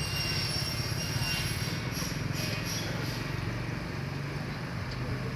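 A steady low mechanical hum, with faint high whines held on top of it.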